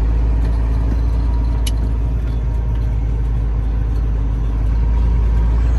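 Semi-truck's diesel engine running steadily under way, heard from inside the cab as a constant low drone with road noise.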